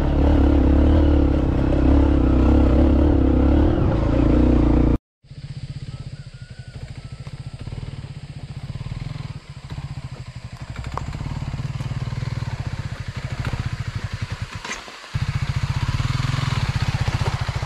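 Dirt bike engines running in two edited clips: a loud engine for about five seconds, then after a sudden cut a quieter engine with a steady, even beat that grows louder again near the end.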